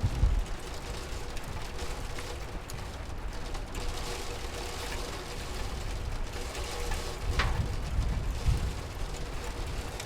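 Steady rain ambience with a faint hum. A few low thumps come at the start and again about seven to eight seconds in, with a sharp click among them.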